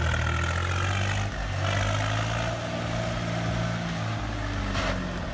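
A vehicle engine running steadily with a low, even drone; its higher overtones ease slightly downward in pitch over the first second or so.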